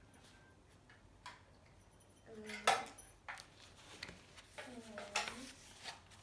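Cutlery and dishes clinking in a few sharp knocks, one louder clatter about a third of the way in, with two short voice sounds, likely a child's, between them.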